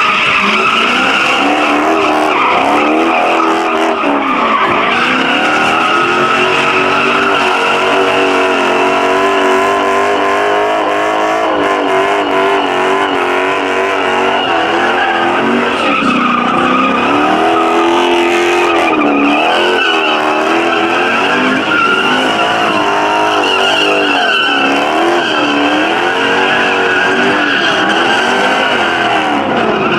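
A car's engine revving hard, its pitch rising and falling over and over, with tires screeching continuously as the car does a burnout or donuts.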